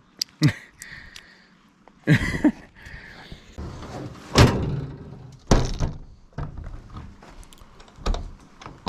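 A run of heavy thunks and knocks at uneven gaps, like doors and gear being shut and loaded as a truck is packed up. The loudest comes about four and a half seconds in.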